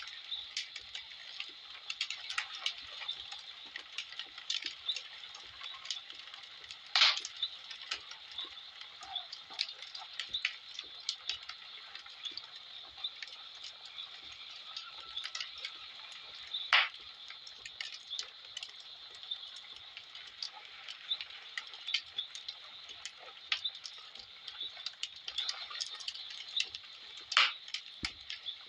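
Wood fire crackling in a fireplace: a steady fizz of small snaps, with a few loud sharp pops, one about seven seconds in, another past the middle and one near the end.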